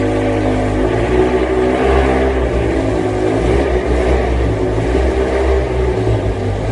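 BMW M6 E63's V10 engine running steadily through a KKS valved exhaust shortly after a cold start, a loud, even exhaust note with a deep rumble.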